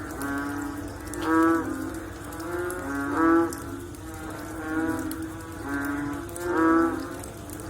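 A chorus of frogs calling after rain: several overlapping pitched calls, each under a second long, repeating every second or two.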